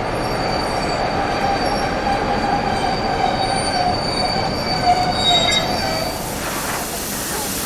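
Train's steel wheels squealing on the rails over a steady rumble, a high wavering squeal that dies away about six seconds in.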